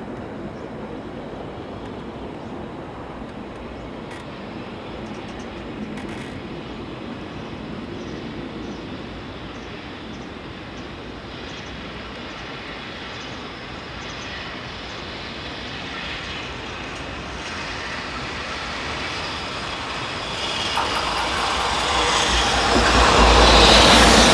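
Steady background rumble, then a train approaching: its noise grows from about twenty seconds in and is loud near the end, with a deep rumble of wheels on rail.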